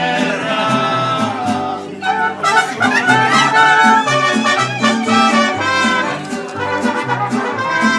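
Mariachi band playing, with trumpets leading over a rhythmic bass line; the music dips briefly about two seconds in, then carries on.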